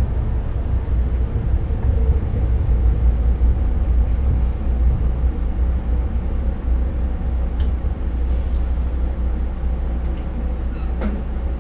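Diesel railcar rolling along the track, heard from inside the cab as a steady low rumble while it pulls into a station platform. A faint, thin high tone sounds through the last few seconds.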